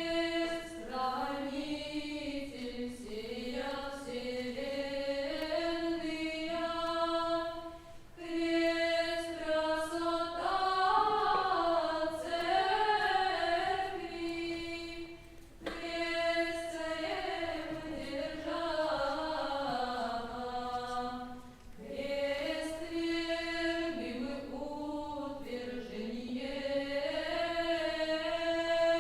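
A cappella choir singing Old Russian chant in long phrases over a steadily held drone note, with short breaths between phrases.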